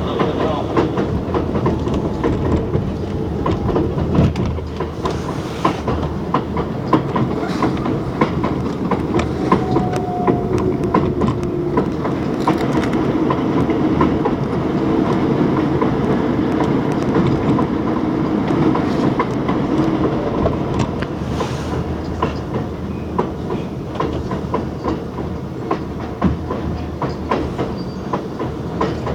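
R62A subway train running at speed, its wheels clicking over the rail joints in a steady clickety-clack under continuous running noise.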